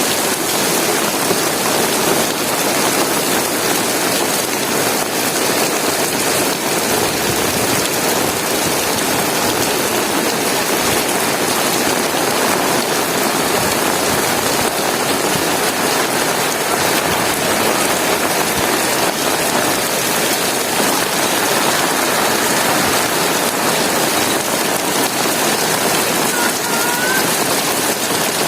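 Heavy rain falling steadily on hard surfaces, a dense, even hiss with no let-up.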